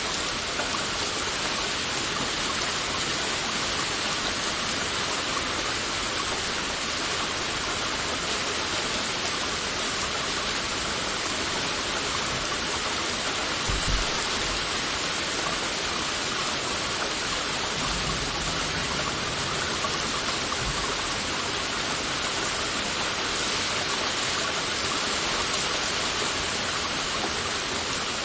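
Heavy rain falling steadily: a dense, even hiss. There is a brief low thump about halfway through and a few low rumbles a few seconds after it.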